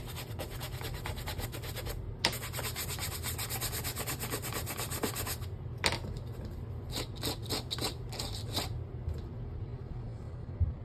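A suede brush scrubbing back and forth over suede to reset the nap: a quick run of strokes, then after a pause a handful of separate strokes.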